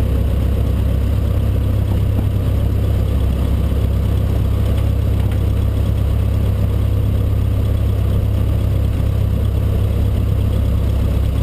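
Cessna 152's four-cylinder Lycoming O-235 engine and propeller running steadily at low power, a deep even drone.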